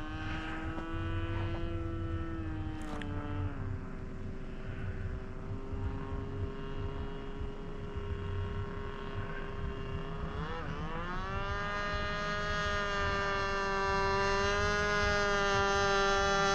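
EZ Global Cessna 182 radio-controlled model airplane in flight, its engine giving a steady whining note. The pitch drops about three seconds in, then dips and climbs back up about ten seconds in. It grows gradually louder toward the end.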